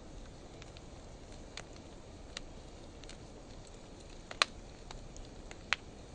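Wood fire of driftwood and dry hardwood logs burning in an open fire stand: a steady low rush with scattered sharp crackles and pops. The loudest pop comes about four and a half seconds in, and another just before the end.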